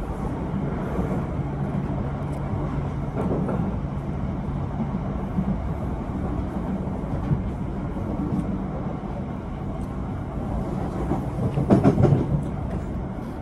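Passenger train running, heard from inside the carriage: a steady rumble with a low hum, and a brief louder clatter about twelve seconds in.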